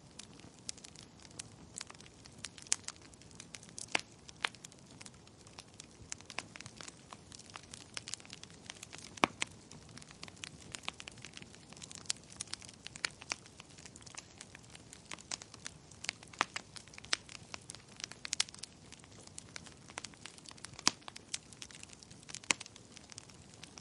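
Wood fire burning in a fireplace: irregular sharp crackles and pops, a few louder snaps, over a soft low hiss of the flames.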